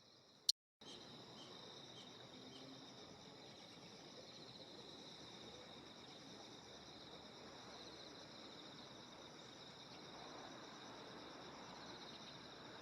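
Faint steady chorus of insects, a continuous high-pitched trilling that swells in pulses now and then. About half a second in, a sharp click and a brief dropout in the sound.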